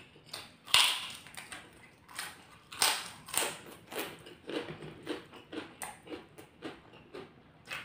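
Mouth chewing crunchy kerupuk crackers with rice: a sharp crunch about a second in, several more crunches, then chewing at about three bites a second.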